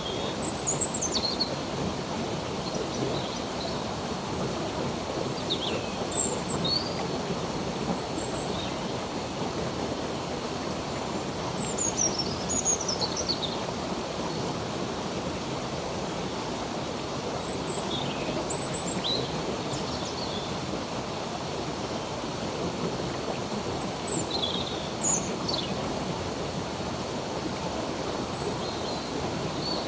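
Running water of a stream, a steady rushing, with birds chirping over it: short, high, falling chirps in small clusters every few seconds.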